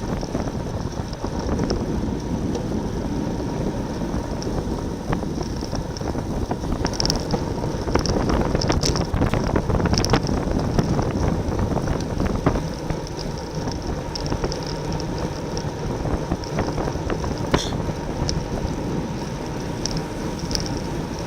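Wind rushing over the microphone of a racing cyclist's camera at speed, with road and tyre noise underneath and scattered light clicks.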